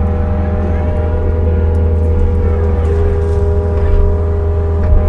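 Kobelco SK55 mini excavator's diesel engine running steadily while digging, with a higher steady tone joining about three seconds in.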